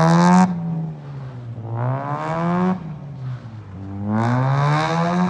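Rotary engine of a Toyota KE70 Corolla revving hard in three bursts. Each time the pitch climbs, then drops away abruptly as the throttle closes; the first burst ends about half a second in.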